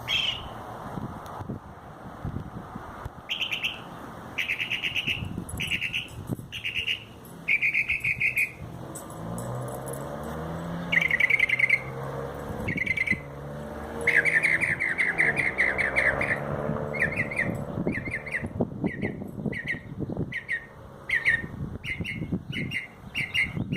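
A bird singing a run of short, repeated phrases of rapid pulsed trills and chirps, mimicking the patterns of car alarms. The song has a low background rumble under it.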